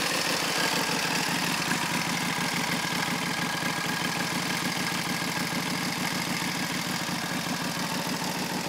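1931 Indian 101 Scout's flathead V-twin idling steadily with an even beat, warming up just after a cold start in below-freezing weather.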